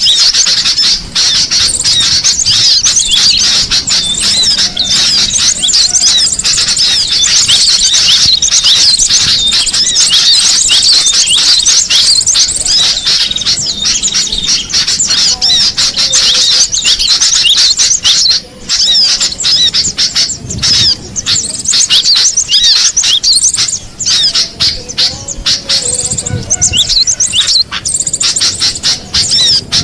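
Cinereous tit (gelatik batu) singing and calling: a dense, unbroken stream of quick, high chirps.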